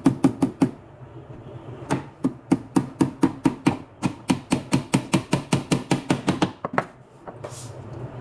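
Hammer striking nails in quick, even taps, about four to five a second. A short run opens, then after a pause of about a second comes a long run of some twenty strikes, with a few single taps near the end.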